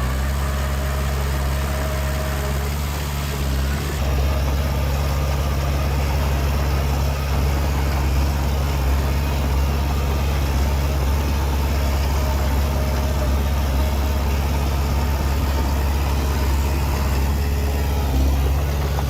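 Heavy diesel engine of a bulldozer or dump truck running steadily with a low hum, a little louder from about four seconds in.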